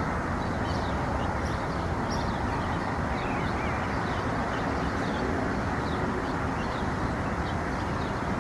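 Steady background hum of distant traffic, with small birds chirping faintly over it in short, falling chirps about twice a second.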